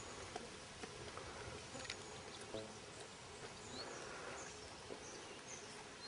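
Faint outdoor ambience: a steady low hiss with a few scattered small ticks, and several short high bird chirps about three to five seconds in.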